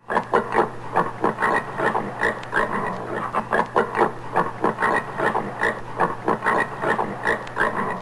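Common warthog grunting in a quick, continuous run of short grunts, about three or four a second, over a steady low hum.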